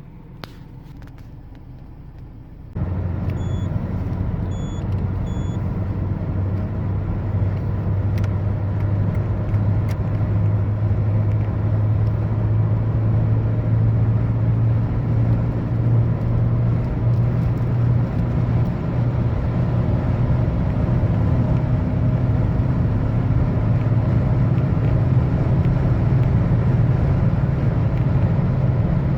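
Volkswagen New Beetle's 2.0 AQY four-cylinder engine, which sets in suddenly about three seconds in and then runs with a steady low drone that slowly rises in pitch and loudness as the revs climb. Three short electronic beeps sound just after it comes in.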